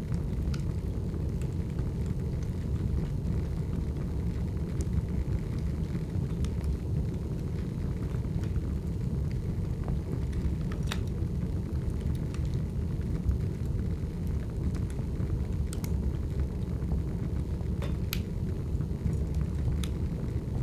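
Large outdoor fire burning with a steady low rumble and a few sharp crackles now and then.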